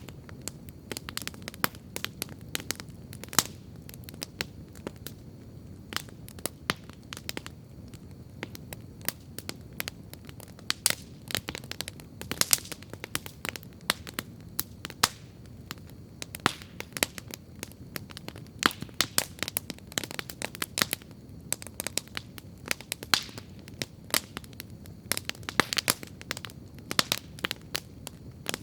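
Wood campfire crackling steadily, with frequent sharp irregular pops and snaps over a low, soft rumble of the flames.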